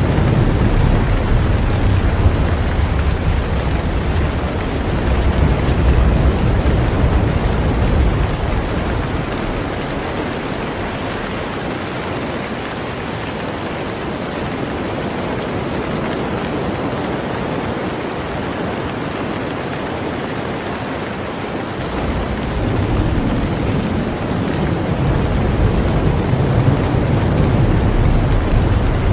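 Heavy rain falling steadily on a boat, an even hiss of drops. A deep low rumble sits under it for the first quarter or so, fades out in the middle and comes back about three-quarters of the way through.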